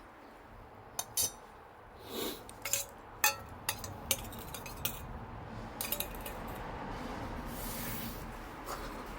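Irregular clinks and knocks of cutlery and dishes being handled, a dozen or so sharp strikes over about five seconds, some ringing briefly, then a short hiss near the end.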